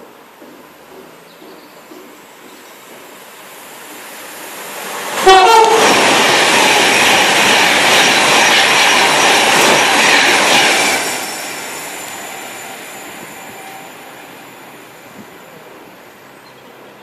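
A train approaching and passing through at speed, with a brief horn note as it arrives. About five seconds of loud rushing rail noise follow, then it fades as the train recedes.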